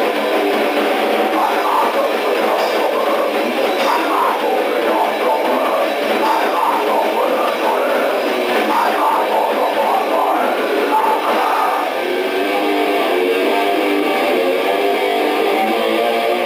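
D-beat raw punk band playing: distorted electric guitar over drums in a lo-fi demo recording, thin with almost no low end. About twelve seconds in the guitar shifts to a more regular repeating riff.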